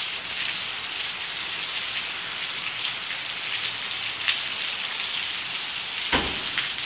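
Heavy rain falling steadily on wet pavement, an even hiss with a few louder single drops. A single thump about six seconds in.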